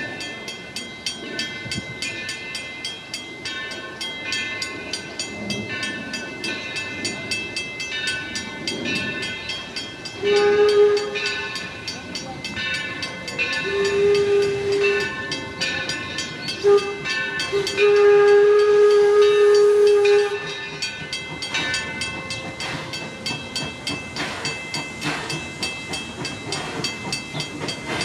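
The 1873 Mason articulated steam locomotive Torch Lake is under way with a rapid, even clatter. Its steam whistle blows four times, long, long, short, long, the pattern of the railroad grade-crossing signal.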